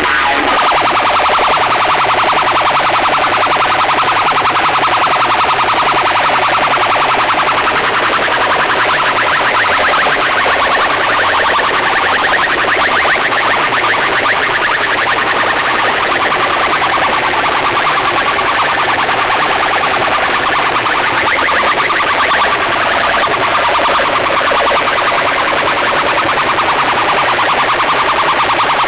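A DJ sound system playing at very high volume: a distorted, warbling, siren-like effect over music, with no break.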